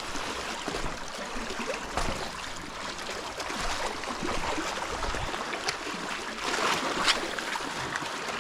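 Sea water washing and lapping against rocks, a steady hiss of moving water with a few faint clicks.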